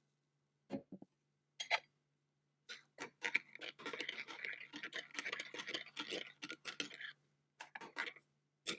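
Sharp clicks and knocks of hard objects, then about four seconds of rapid, dense clattering and rattling, and a few more clicks near the end.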